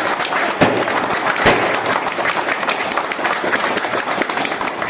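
A group of people applauding: a dense, steady patter of many hands clapping.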